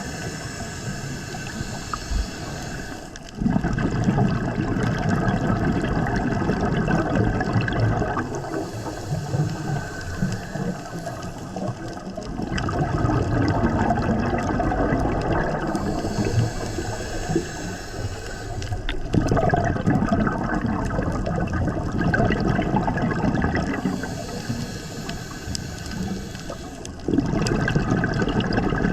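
Scuba diver breathing underwater through a regulator: a hiss on each inhale of about three seconds, then a rumble of exhaled bubbles for four or five seconds, repeating in a slow, even cycle about four times.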